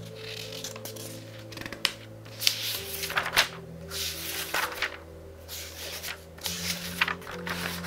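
Pages of a very thick book, a couple of thousand pages, being turned quickly: about nine short papery rustles. Soft music with sustained low notes plays behind them.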